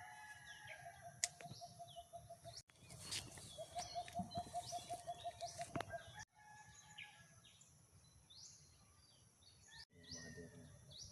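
Birds calling outdoors: quick runs of low, even notes about six a second, mixed with many short high rising chirps, over a steady high insect whine. The sound cuts off abruptly three times.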